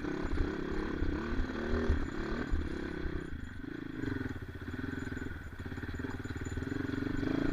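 Motorcycle engine pulling up a steep, rough off-road climb. Its note dips about three seconds in and picks up again a second later.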